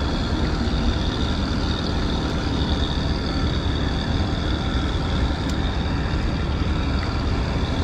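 Steady wind buffeting and rumbling on the microphone in storm weather, with an even hiss above it and no distinct events.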